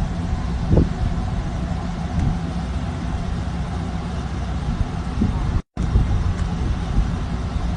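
An engine running steadily with a low rumble. The sound cuts out completely for a moment about three-quarters of the way through.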